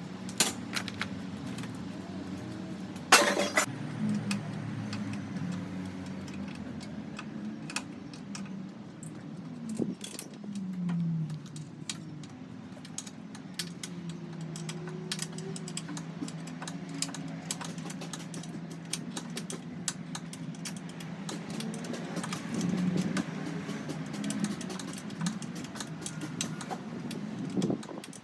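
Car-dismantling work: metal parts and tools clinking and knocking over a steady machine hum, with one loud metallic bang about three seconds in.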